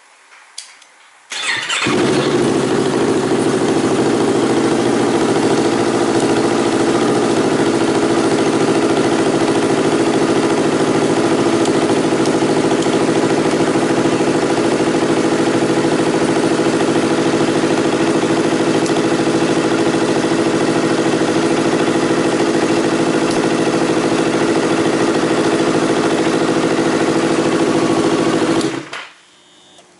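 Yamaha YZF-R25's 250 cc parallel-twin engine, breathing through an aftermarket muffler, is started about a second and a half in and idles steadily, then is switched off about a second before the end.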